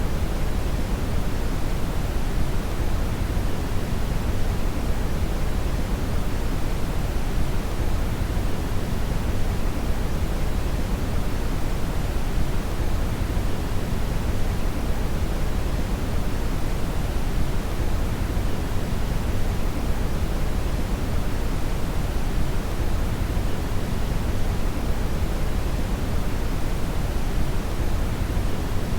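Synthetic brown (red) noise: a steady, deep rushing hiss, strongest in the low end and falling off toward the highs, with no change.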